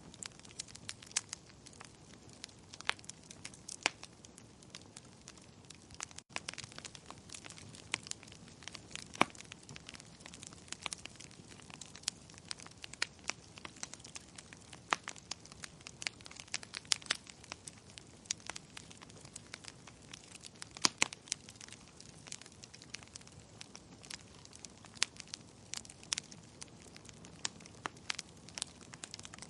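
Wood fire burning in a fireplace, crackling with many irregular sharp pops over a steady low rustle of flame. The sound cuts out for an instant about six seconds in.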